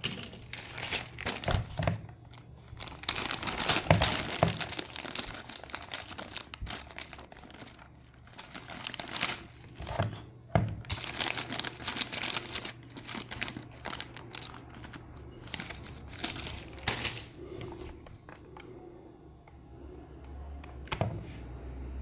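Irregular crinkling and rustling of material being handled by hand, with scattered clicks, over a faint steady low hum.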